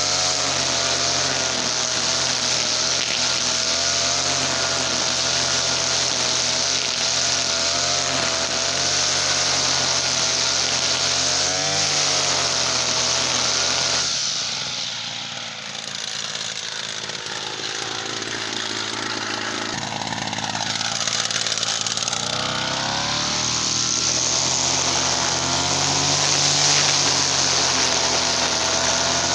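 TL33 two-stroke petrol brush cutter engine running at high revs, its pitch wavering. About halfway through the revs drop and the sound falls away, then it speeds back up near the end.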